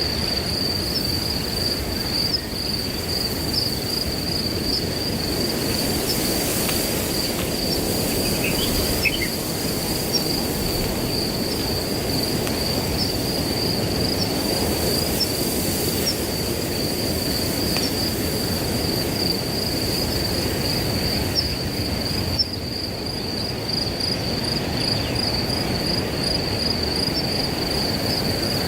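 Crickets trilling steadily in one high, finely pulsing tone over a continuous rustle of wind through grass. A brief faint chirp, likely a bird, sounds about nine seconds in.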